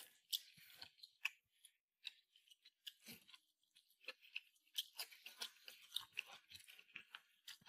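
Faint close-up chewing of a mouthful of rice and meat: a string of soft, irregular wet mouth clicks and smacks.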